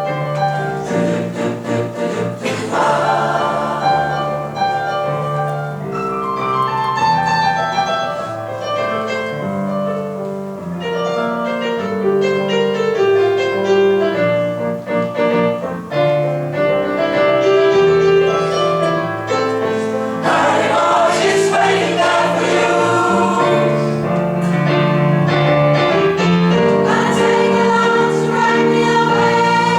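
Choir singing in several-part harmony, the chords shifting steadily; the sound grows fuller and louder about two-thirds of the way through.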